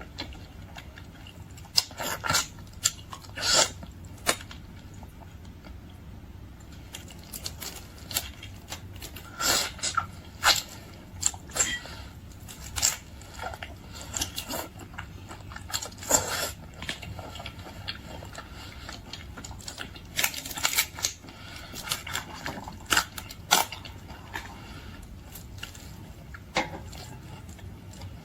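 Close-miked eating of boiled seafood: irregular crunches and bites with chewing between them.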